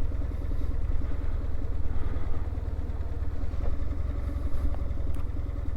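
BMW R1150 GSA's boxer-twin engine running steadily at low revs, a constant low rumble.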